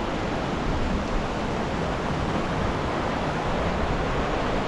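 Steady, even rush of water, the sound of a Himalayan mountain waterfall or torrent.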